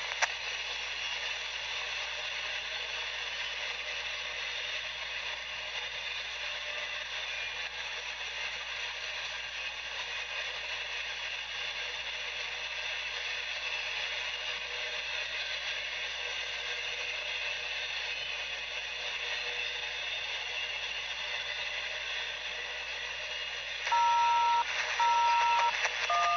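Railroad scanner radio hissing steadily with static between transmissions. Near the end come three short beeps, each two tones sounding together like telephone dialing tones.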